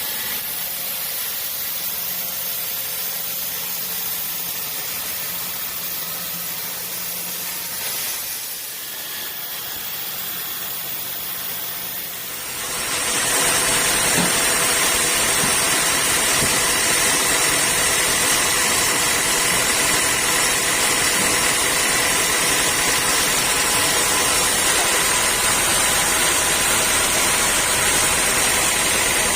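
Sawmill machinery running steadily, growing louder about twelve seconds in, with a steady hiss and a thin high whine.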